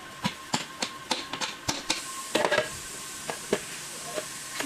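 Sharp metallic clicks and taps of hand tools and engine parts being handled: a quick run of about eight in the first two seconds, then a few scattered ones, over a faint steady whine.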